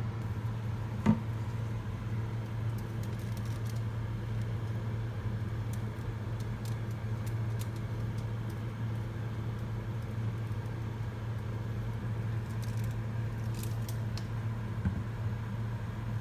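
A steady low machine hum runs throughout, with a sharp click about a second in, a softer one near the end, and faint light ticks scattered between.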